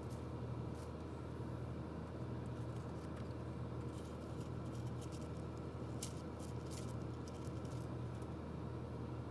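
Small, light clicks and scratches of a toy's plastic gearbox parts being handled and pried apart, a few scattered and a cluster about six to seven seconds in, over a steady low electrical hum.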